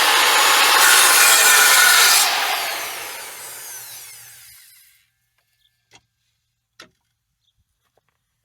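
Table saw cutting into a wooden piece, then switched off about two seconds in; the blade winds down with a falling whine that dies away about five seconds in. Two faint clicks follow.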